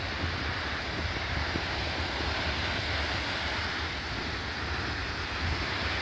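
Wind buffeting the microphone with a low, flickering rumble, over a steady rushing roar that does not change.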